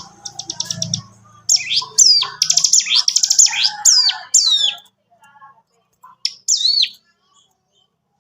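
Ciblek gunung singing: a fast, dry, drill-like rattle, then a run of loud, sharp whistled notes sweeping downward, with a couple more after a short pause.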